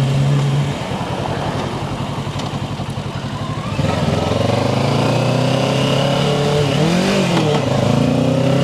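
Kawasaki Ninja 650's parallel-twin engine, heard while riding: a steady engine note falls away about a second in as the throttle is eased off, then about four seconds in the engine pulls again with a slowly rising pitch.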